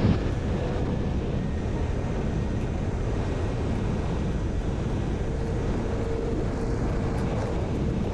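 Steady rush of wind and road noise while riding a Yamaha R6 motorcycle at cruising speed, with a faint steady tone from about five seconds in.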